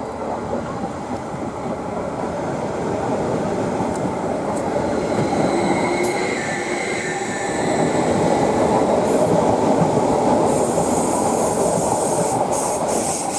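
Electric passenger train moving through the station: a steady wheel-on-rail rumble that grows louder, with a faint wheel squeal about halfway through and a rising hiss near the end.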